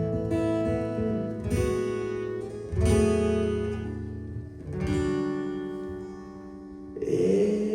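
Acoustic guitar strumming slow chords, each struck chord ringing out and fading before the next, about five in all. Singing comes in near the end.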